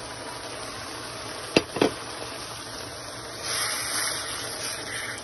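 Chicken keema frying in a nonstick pan, a steady sizzle, with two sharp knocks about a second and a half in. About three and a half seconds in the sizzle grows louder and hissier as tomato paste goes into the hot oil.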